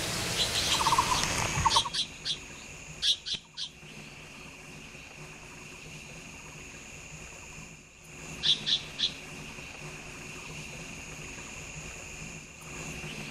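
Wild bird calls: a short low trill in the first two seconds, then quick series of sharp high notes, three at a time, twice. A steady high whine runs behind the calls.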